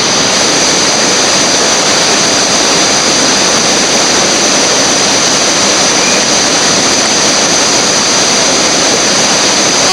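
Steady rushing of whitewater, an even roar with no breaks.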